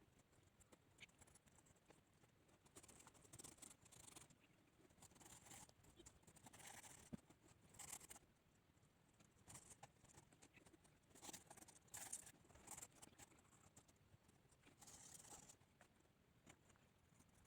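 Faint, irregular scratching strokes of a pencil on paper, each lasting about half a second to a second with short pauses between.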